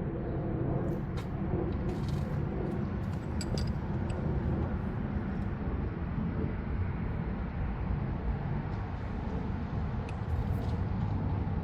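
Steady low background rumble, with a few faint light clicks about a second in and again near the end.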